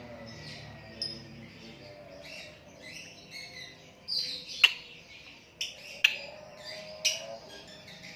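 A lovebird chattering in its long, continuous 'ngekek' song: rapid high chirps and trills, with three sharp, loud notes in the second half. The bird is in molt.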